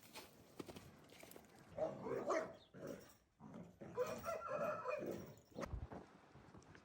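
An animal calling twice, each call about a second long, with a gap of just over a second between them.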